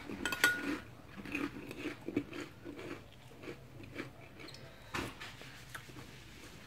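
Close-up chewing and mouth sounds of a person eating cilok, chewy tapioca balls in soup, with soft repeated chews and a few short clicks.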